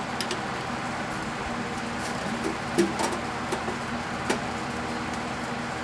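Scattered light clicks and taps of a screwdriver working at the capacitor inside a microwave oven being stripped for scrap, over a steady low mechanical hum.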